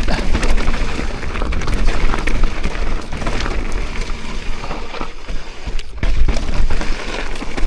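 Mountain bike riding down a rough dirt trail: wind buffeting the rider's microphone in a heavy low rumble, over tyre noise and frequent knocks and rattles as the bike hits bumps.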